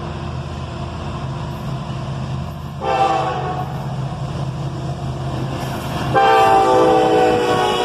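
Diesel freight locomotive sounding its multi-chime air horn: a short blast about three seconds in, then a long, louder blast starting about six seconds in, over the steady rumble of the locomotive's engine.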